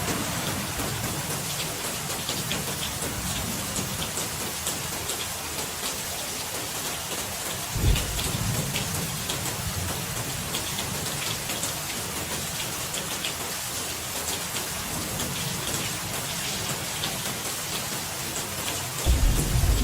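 Steady rain falling, with the patter of individual drops. Low thunder rumbles break in about 8 seconds in and again near the end.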